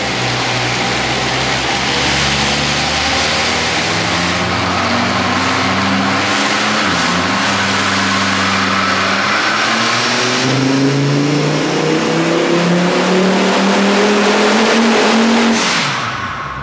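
Volvo 850's turbocharged inline five-cylinder engine on a full-throttle dyno pull, its pitch climbing steadily over a loud rushing hiss. About seven seconds in the pitch dips sharply, then it climbs again until the throttle closes and the revs fall away just before the end. The owners suspect the car misfires under dyno load.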